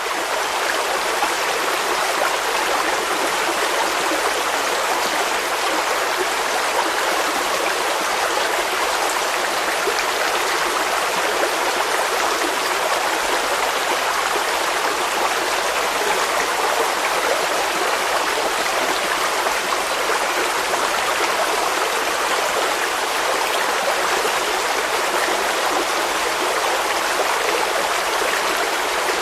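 Running water of a stream, a steady, even rushing with no breaks.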